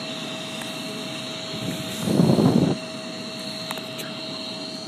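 F-16 jet engine whining steadily, before takeoff. About two seconds in, a brief loud rumble lasting under a second rises over it.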